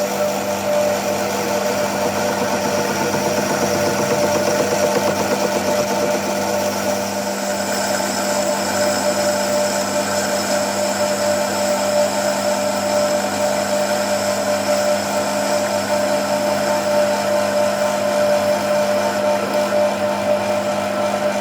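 A machine running steadily with a constant motor hum and whine, consistent with metalworking equipment at work; a higher whine joins in about eight seconds in.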